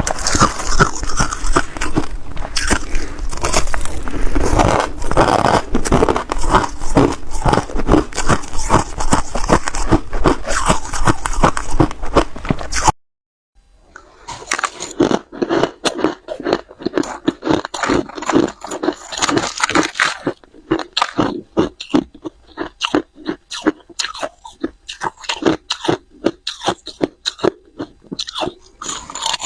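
Ice being bitten and chewed close to the microphone, with rapid crunches. About 13 seconds in, the sound cuts out completely for a moment. The crunching then resumes, sparser and quieter.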